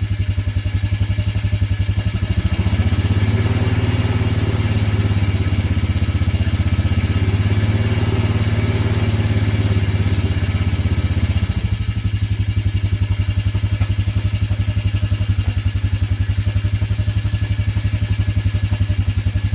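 Vehicle engine idling after a cold start, with an even, lumpy pulse. About eleven and a half seconds in, the upper part of the sound drops away and the idle carries on steadier and lower.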